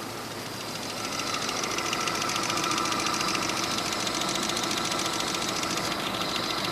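UAZ's UMZ-417 four-cylinder petrol engine running with a rhythmic knock. It gets louder about a second in, then holds steady. The cause of the knock is unknown to the owner.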